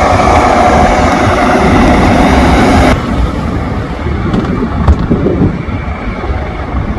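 AS-365 Dauphin (Dolphin) helicopter running close by: loud, steady turbine and rotor noise with a low throbbing, which gets duller and a little quieter abruptly about three seconds in.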